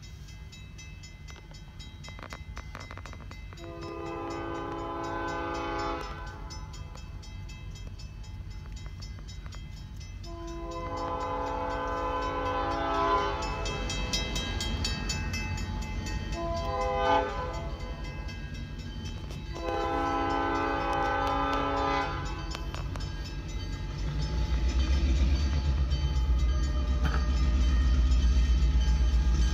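Diesel freight locomotive sounding its multi-tone air horn in the grade-crossing signal, two long blasts, one short and one long, as it approaches the road. The low rumble of its engine then grows loud as it rolls across the crossing near the end.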